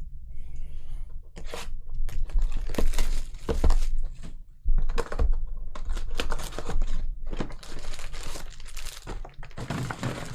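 Foil trading-card pack wrapper torn open and crinkled by hand: a quick series of rips and rustles.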